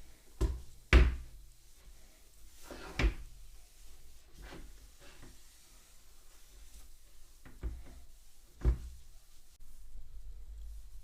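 A few scattered knocks and thumps, the loudest about a second in, another near three seconds and one near the end.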